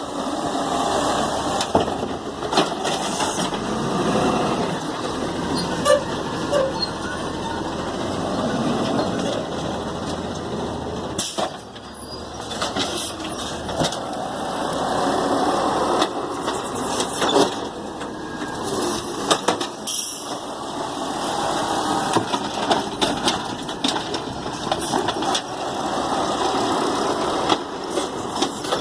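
Garbage truck running as it works through a collection route, its engine and machinery sounding steadily, with sharp knocks here and there and two brief lulls.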